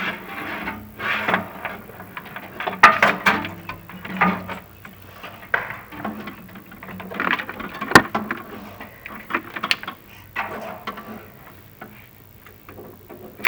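Chimney inspection camera and its cable scraping and rubbing against the clay flue tiles as it is moved in the flue, with a few sharp knocks, the sharpest about three and eight seconds in.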